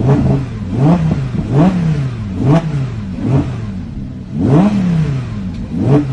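2017 Lamborghini Huracán LP580-2's naturally aspirated V10 revved in short throttle blips, about seven in six seconds, each rising in pitch and dropping straight back toward idle.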